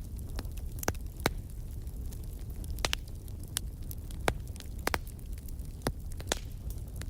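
Wood fire crackling in a fireplace: sharp, irregular pops and snaps every half second or so over a steady low rumble.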